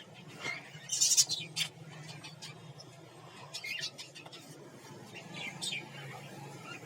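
Small pet parrots chirping: short, high calls several times, the loudest about a second in, over a faint steady low hum.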